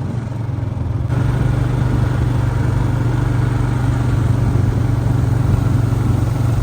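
Vehicle engine running steadily, getting louder and fuller about a second in.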